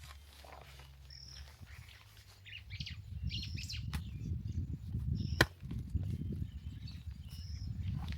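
A bird repeating a short, high chirp every couple of seconds, over low rumbling noise that sets in about three seconds in, with one sharp knock about five seconds in.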